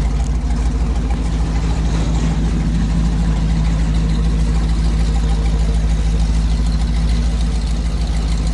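1972 Chevy truck engine idling steadily with an even low rumble.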